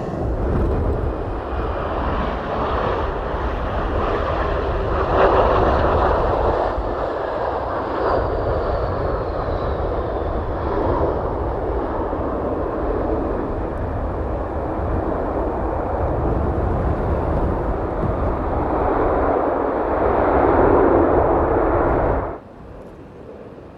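Aircraft engines of a passing airplane: a steady, loud rush with a faint falling whine, swelling twice. It cuts off suddenly near the end.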